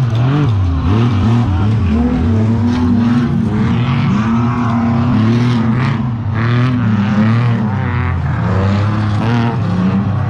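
Off-road race truck engine running hard, its pitch rising and falling as it revs, then holding steadier for a few seconds in the middle.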